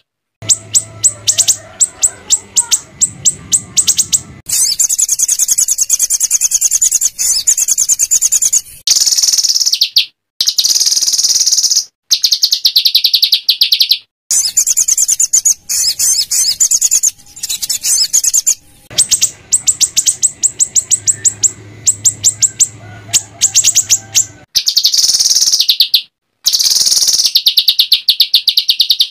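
A small songbird singing a harsh, rapid-fire song. Runs of sharp repeated notes, many per second, alternate with long buzzy trills, and the song comes in bursts with abrupt breaks between them. This is the rough 'shot' phrasing (tembakan kasar) used as a masteran tutor song for white-rumped shamas.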